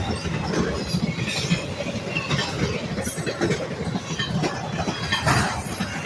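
Train rolling past, its wheels clattering over the rails with a steady rumble and now and then a faint, brief wheel squeal.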